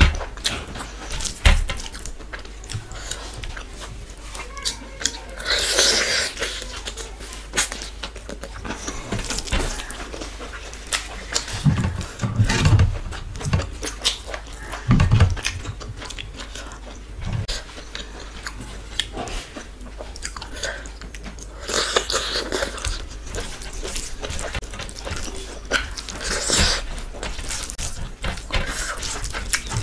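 Close-miked eating sounds: wet chewing and lip smacking on mouthfuls of rice and curry, with fingers squelching as they mix rice and dal on the plate. There are a few low thumps near the middle.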